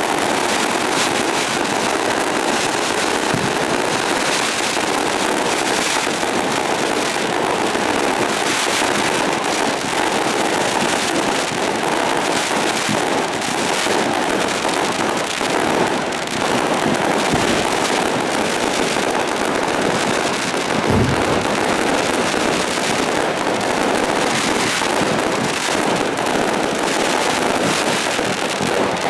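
Firecrackers going off in a continuous, dense rapid crackle, with a couple of deeper bangs mixed in.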